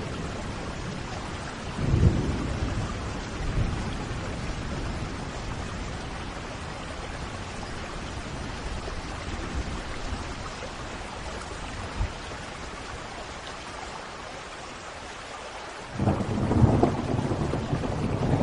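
Steady rain with rolling thunder: a couple of low thunder rumbles early on, a quieter stretch, then a loud, sudden crack of thunder rolling into a rumble near the end.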